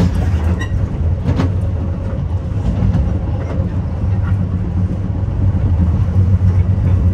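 Metra commuter train rolling on the rails, heard from inside its rear cab car: a steady low rumble and hum with a few sharp clicks from the wheels, as the train slows for a station stop.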